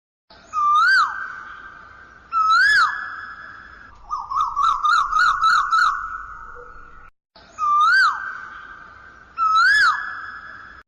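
Asian koel calling: two whistled notes that rise and fall, then a quick run of about eight short notes, then two more rising-and-falling whistles. Each note trails off in a long echo.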